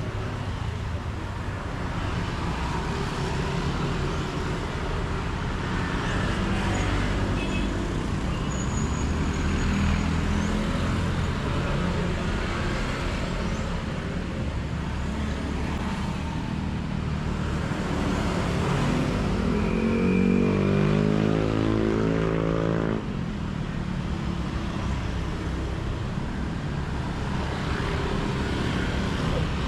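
Street traffic, with motor vehicle engines running steadily. About eighteen seconds in, one engine rises in pitch for several seconds, then drops away abruptly.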